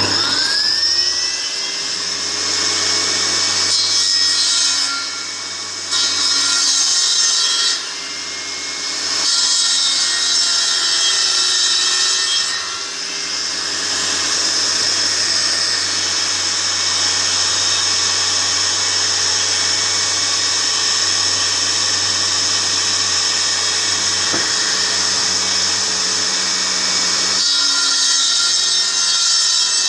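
Electric power saw starting up and cutting wood: the motor's whine rises as it spins up, then runs steadily, the level dipping and swelling a few times in the first dozen seconds as the cut loads it.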